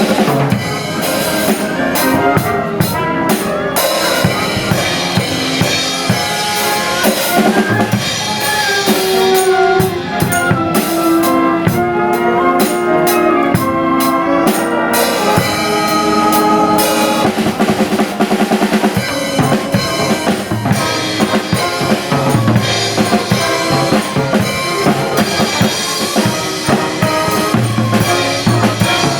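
Band music played live, with a drum kit keeping a busy beat under pitched melody instruments.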